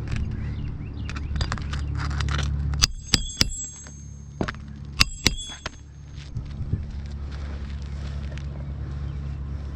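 Hammer driving roofing nails into asphalt shingles: three sharp, ringing metal blows about three seconds in, then two more about two seconds later, over a steady low hum.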